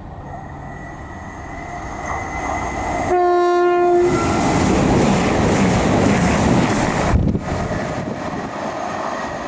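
CrossCountry Voyager diesel multiple unit approaching at speed, sounding one horn blast of about a second about three seconds in. It is followed by a loud, steady rush of engine and wheel noise as it runs through the station, which drops abruptly about seven seconds in.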